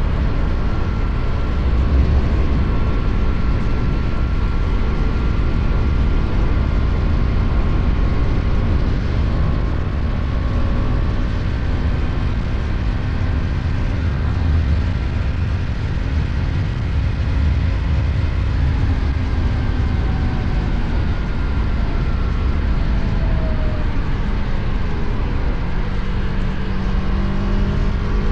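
KTM Duke 250 single-cylinder engine running steadily at highway speed, under heavy wind and road rush. A set of higher engine-like tones rises near the end.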